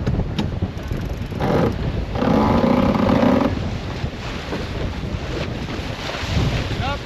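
Wind buffeting the microphone on a sailboat under way, with a few sharp clicks near the start. Something aboard gives a louder buzzing sound from about one and a half to three and a half seconds in. A short rising squeak comes near the end.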